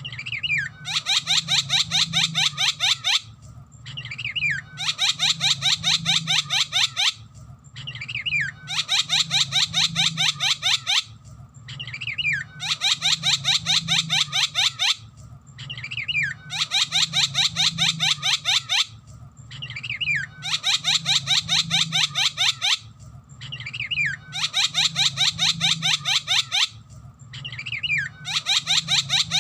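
Javan myna (jalak kebo) calling in a repeated phrase about every four seconds: a short gliding whistle, then a fast, harsh rattling run of notes lasting about two seconds. A low hum runs underneath.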